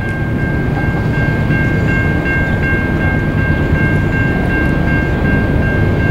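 Low rumble of an approaching Norfolk Southern freight train led by GE C40-9W diesel locomotives, growing slightly louder, with a steady high-pitched ringing tone over it.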